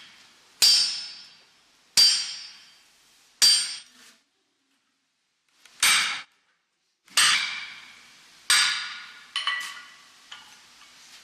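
Blacksmith's hammer striking iron on an anvil: separate heavy blows about every second and a half, each with a bright metallic ring, then a few lighter quick taps near the end.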